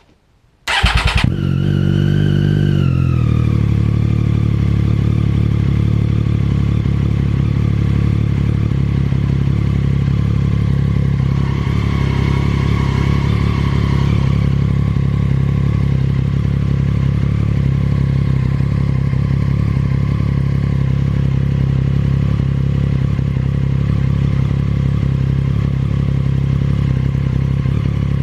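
Triumph Daytona 675R's three-cylinder engine cranked by its starter under a second in, catching and settling from a slightly higher idle down to a steady idle within about three seconds, heard through its Akrapovic full titanium exhaust. The engine is already warm.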